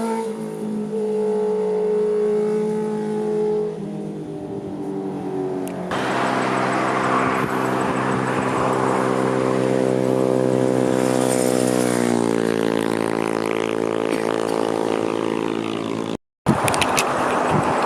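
Sport motorcycle engines running and passing, louder from about six seconds in, with the engine note sliding down in pitch around twelve seconds. The sound cuts out briefly near the end, then a different steady engine note follows.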